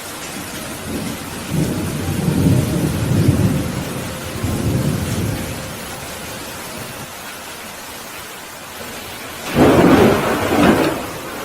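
Steady rain falling during a thunderstorm, with thunder rolling low for a few seconds early on and a louder, sharper thunderclap about ten seconds in.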